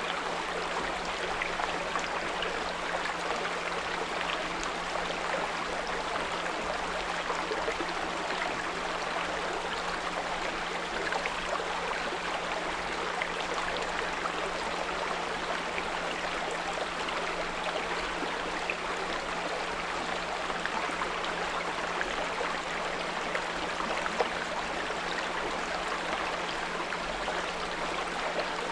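A small brook babbling steadily over stones, with a steady low pure tone at 174 Hz laid under it.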